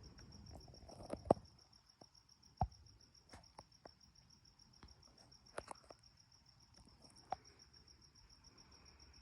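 Crickets trilling in a steady, high, fast-pulsing chirp. A handful of sharp clicks are scattered through it, the loudest about a second in.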